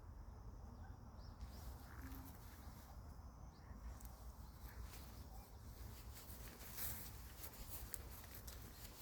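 Faint outdoor background: a steady low rumble with scattered small clicks and rustles.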